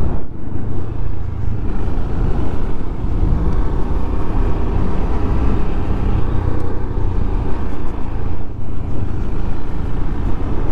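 KTM Duke 390's single-cylinder engine running steadily while the bike is ridden at road speed, with wind and road noise. The sound dips briefly twice, just after the start and about eight and a half seconds in.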